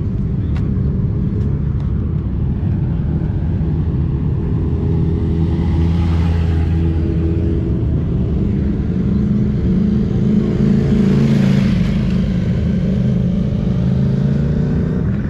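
Motorcycle engine running steadily, its pitch and loudness rising about six seconds in and again about eleven seconds in.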